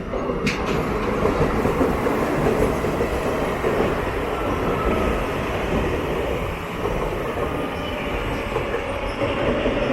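A Flying Ranee express train running on the track, heard from aboard a non-AC double-decker coach: a steady rumble of wheels and coach, with a sharp click about half a second in.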